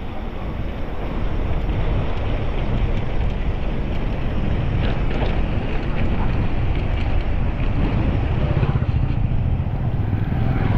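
Wind rushing over the microphone while riding, a steady low buffeting with a few faint ticks and rattles mixed in.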